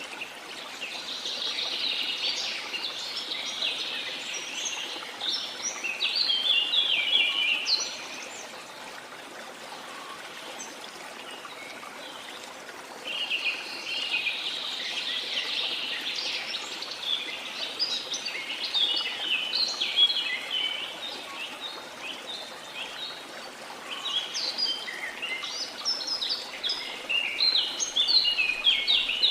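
Rainforest birds chirping and singing in three spells of busy song over a steady rush of flowing water.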